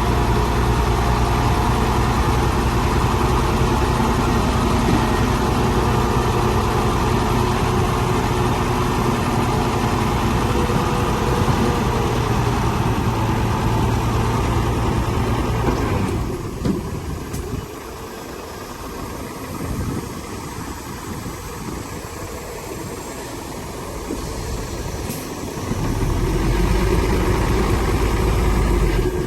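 Heavy diesel engine of earthmoving machinery running steadily. It falls away sharply a little past halfway and picks up again near the end.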